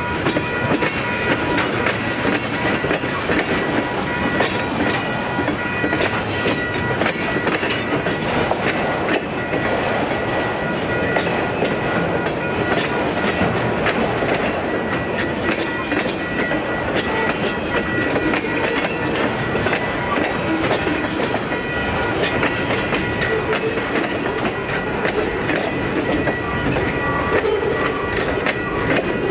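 Railway cars rolling steadily past trackside, with a constant rumble and repeated clicking of wheels over the rail joints.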